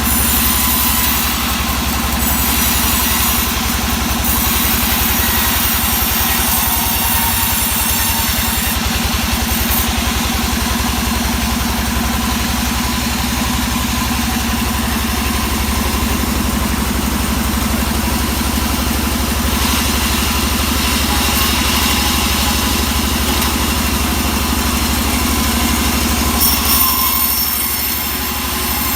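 Engine-driven wood saw running steadily at a constant speed while teak is sawn, with a slight dip in level near the end.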